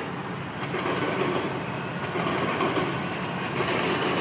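Canadian Pacific train rolling past over a railroad crossing, its cars making a steady noise on the rails, heard from inside a car.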